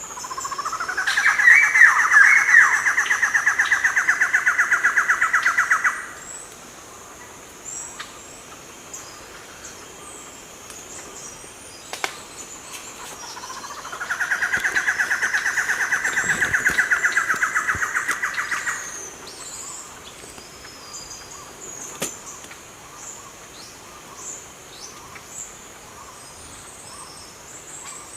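A bird giving two long trilling calls about eight seconds apart, each rising in pitch at the start and then held as a fast, even trill for about five seconds. Faint high chirps go on underneath.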